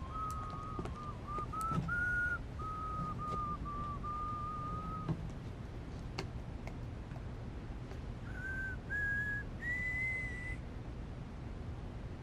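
A person whistling a tune: a run of held notes for the first few seconds, then, after a pause, three notes stepping up in pitch.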